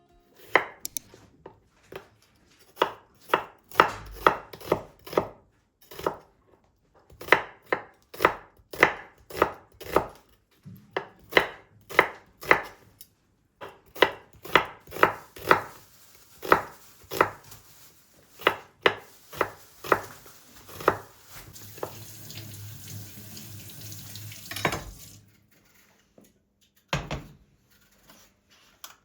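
Knife chopping on a cutting board: a long series of sharp chops, one or two a second, in short runs with brief pauses. Near the end come a few seconds of steady rushing noise and then a single knock.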